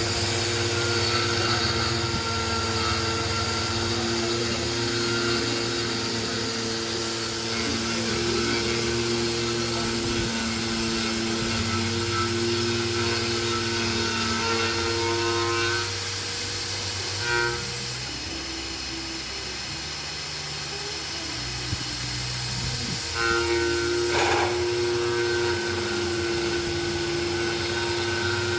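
Metal-machining machine tool running with a steady whine. The whine drops away for several seconds past the middle, leaving a lower hum, then picks up again.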